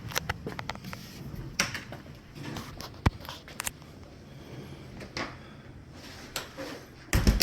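Scattered clicks and knocks, like things being handled or a door working, with a louder thump near the end.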